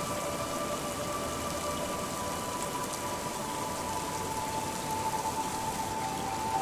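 Steady rain falling, an even patter of raindrops, with a faint held tone underneath that slides slightly lower in the second half.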